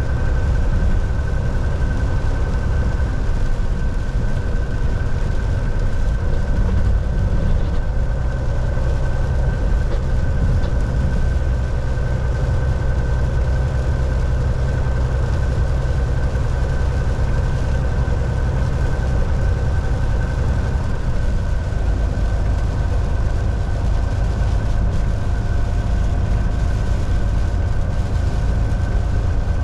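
Volvo VNL 760 semi-truck cruising at highway speed, heard from inside the cab: a steady, heavy diesel drone and road rumble with a thin constant whine above it.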